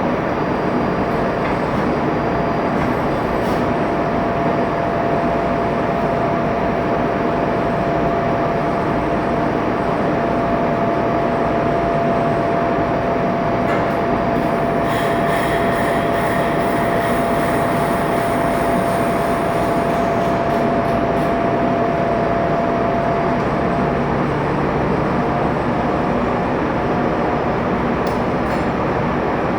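Steady machinery noise of a ship's engine room, running at an even level, with a thin steady whine that breaks up near the end.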